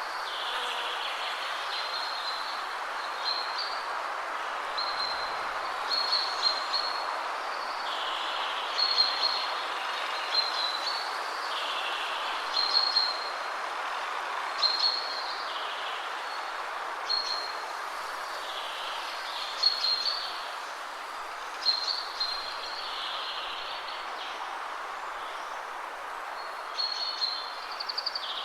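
Steady rush of wind through trees, with songbirds singing short high phrases every couple of seconds over it.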